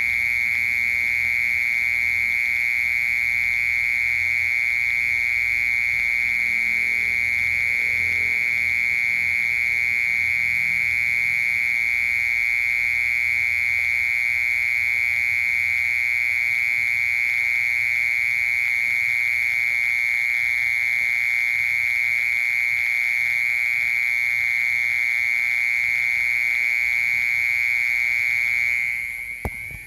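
Mole cricket singing: one steady, unbroken high-pitched song that breaks off near the end.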